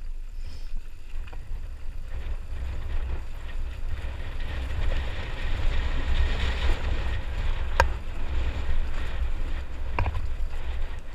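Wind buffeting the microphone: a low fluttering rumble with a rushing hiss that swells in the middle, and two sharp clicks near the end.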